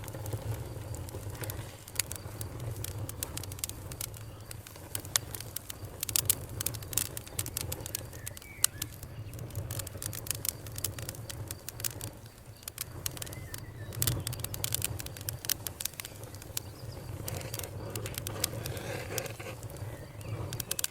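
Campfire crackling, with many sharp pops and snaps over a steady low rumble.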